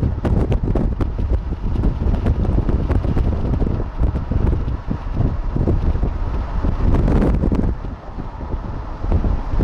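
Strong wind buffeting the microphone in irregular gusts, a loud low rumble.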